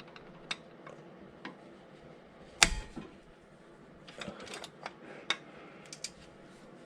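A socket wrench with an extension bar working a tight engine mount bolt loose: scattered metallic clicks and ticks from the tool, with one sharp clank about two and a half seconds in.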